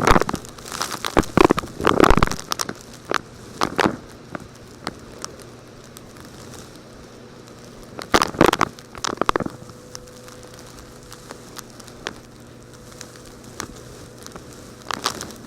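Scattered crunches and crackles: a few clusters early on, a bunch of them about eight seconds in and more near the end, with a faint steady hum between them.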